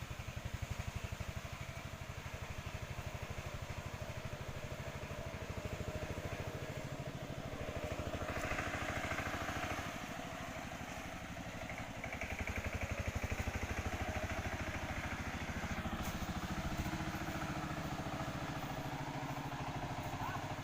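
A small engine running steadily with evenly spaced firing pulses, its level swelling a few times.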